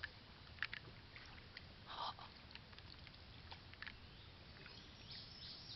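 Quiet canoe drifting on still water: a faint, steady hiss with a few scattered small clicks and taps, and one soft splash-like sound about two seconds in.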